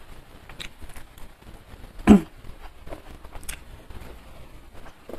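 Close-miked eating sounds: chewing with small wet mouth clicks and smacks, and one louder, short mouth sound about two seconds in.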